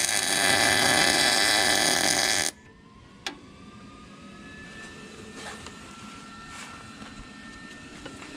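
Welding arc crackling as a single tack weld is laid on a steel bracket, stopping abruptly about two and a half seconds in. A quieter steady hum and one click follow.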